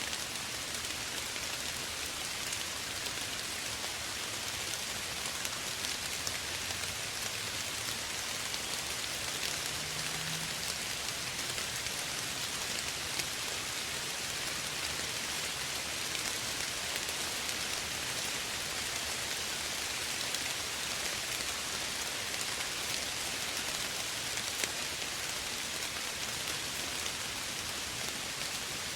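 Steady gentle rain falling, an even hiss with scattered small drop ticks on a surface.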